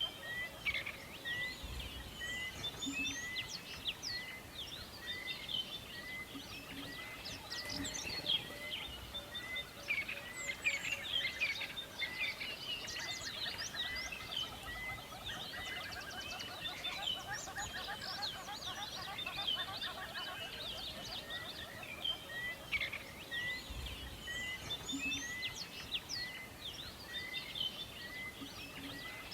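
Several songbirds singing and chirping at once in forest ambience, with one bird repeating a short note at a steady pace, roughly once a second.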